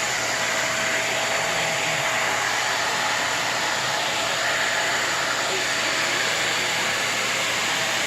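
Upright vacuum cleaner running steadily, an even whooshing motor noise with a faint steady whine in it.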